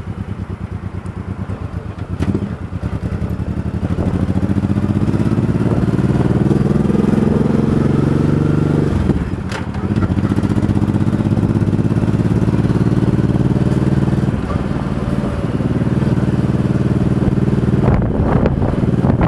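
Motorcycle engine pulling away from low revs and accelerating, its pitch rising, with a brief drop in revs about nine seconds in as it shifts up. It then pulls again and runs steadily at speed.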